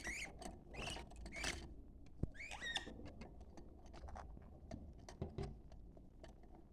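Budgerigars chirping a few short times in the first three seconds, amid scattered soft clicks and ticks of budgie chatter.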